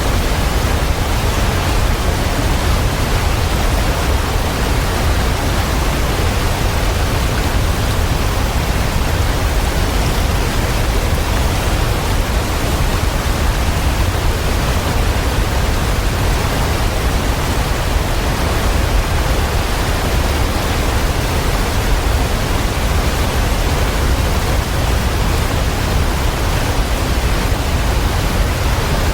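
Waterfall rushing steadily: an unbroken, even roar of falling water with a deep low rumble and no other sounds.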